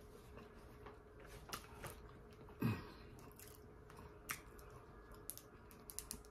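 A person quietly chewing a fried chicken sandwich, with scattered faint mouth clicks and a soft thump about two and a half seconds in, over a faint steady hum.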